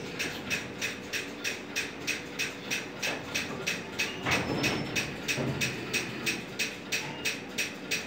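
Freight train running, heard from on a container flat wagon: a steady rhythm of sharp clicks about four a second, with a louder noisy patch about four seconds in.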